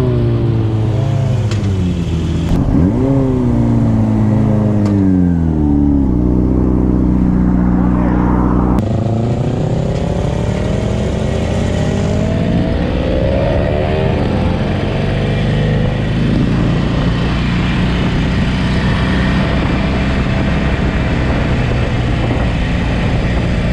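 Sport motorcycle engine revving up and easing off as it pulls away and shifts through the gears, then holding a steady pace, with wind rushing past over the later part.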